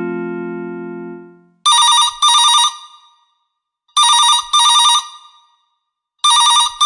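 Telephone ringing in a double-ring pattern: two short rings, a pause, and the pair again, three times. Before it, a short chime dies away over the first second and a half.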